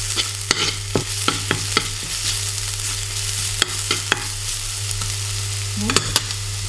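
Pounded garlic and pepper frying in a little oil in a non-stick pan, sizzling steadily, while a metal spoon stirs it and clicks against the pan about ten times. The garlic is at the fragrant stage, the sign that it is cooked.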